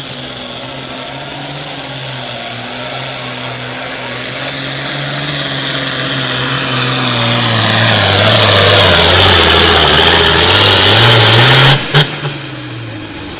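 Turbocharged diesel engine of a pulling tractor running at full power under load, growing louder as it comes down the track. Its pitch sags as the engine lugs down and then climbs again. The engine cuts off suddenly near the end with a sharp pop, and a high whine winds down afterwards.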